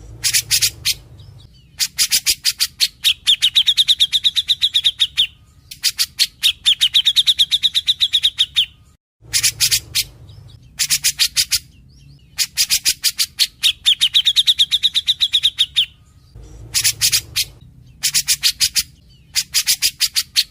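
Cucak jenggot (grey-cheeked bulbul) singing in full voice: repeated phrases of rapid, sharp chattering notes, each a second or two long with short pauses between, several of them carrying a high, steady trill.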